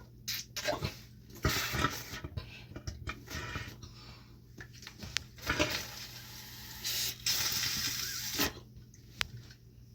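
Irregular clattering and handling noises of hands working on a gas furnace's condensate drain hose and fittings, with a few louder bursts, over a faint steady low hum.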